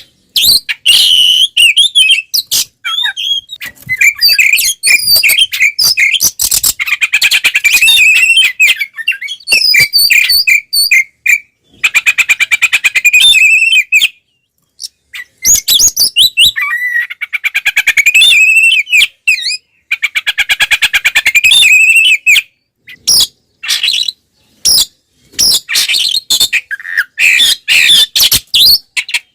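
Oriental magpie-robin (kacer) singing loudly and at length: a fast, varied run of whistled phrases and rapid trills, broken by brief pauses about 14 and 22 seconds in. It is the aggressive fighting song of a bird in full voice.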